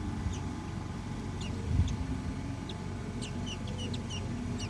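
Baby birds cheeping in short, high, falling chirps, most of them in a cluster from about three seconds in, over a steady low rumble with a soft thump about two seconds in.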